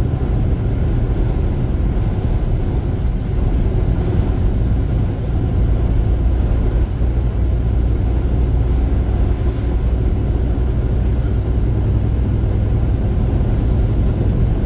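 Steady low rumble of road and wind noise inside a vehicle driving at highway speed through a gusty dust storm.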